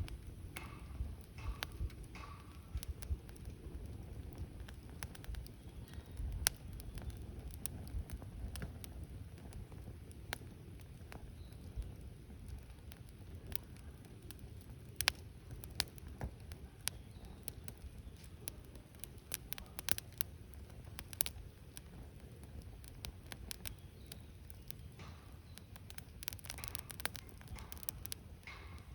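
Wood campfire burning, crackling with irregular snaps and a few sharper pops over a low, steady rumble.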